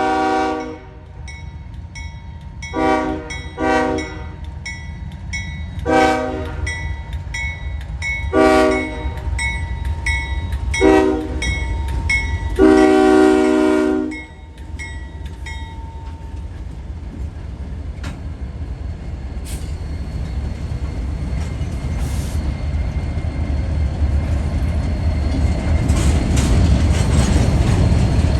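Diesel freight locomotive air horn sounding a series of blasts, a couple of them short and the last one long, with a faint ding repeating about twice a second. Then the rumble of the approaching train's diesel locomotives and wheels grows steadily louder toward the end.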